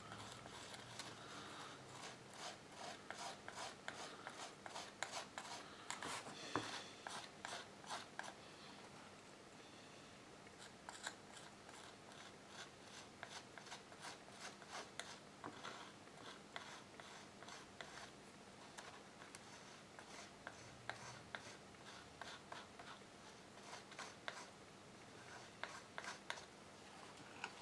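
Faint scratching and scraping of a small metal spatula on paper, spreading coloured filler over a repaired tear in a watercolour. The strokes come quickly and close together for the first eight seconds or so, then more sparsely.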